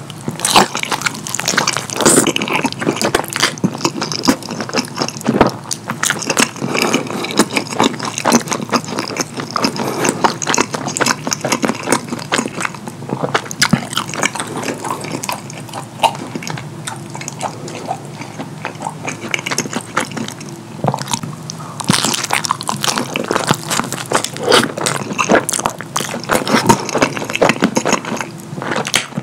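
Close-miked wet chewing and lip smacking of a mouthful of saucy fettuccine on pizza, a dense run of sticky clicks and squelches.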